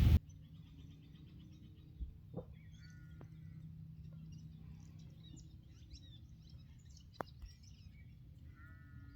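Wild birds calling in native bush: a harsh, drawn-out call twice, about three seconds in and again near the end, over scattered faint high chirps, with a few sharp clicks.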